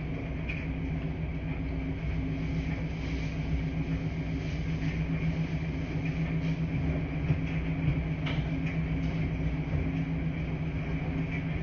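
Steady low hum and rumble of running washing machines in a laundry room, with a few faint clicks or knocks in the middle.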